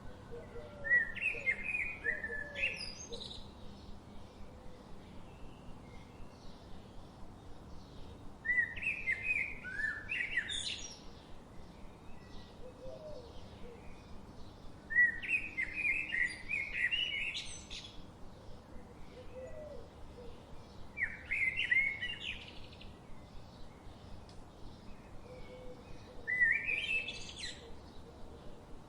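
A songbird singing the same short, bright song phrase five times, about every six seconds, each lasting about two seconds. A steady faint background of forest sound with softer, lower calls runs under it, most noticeable near the start.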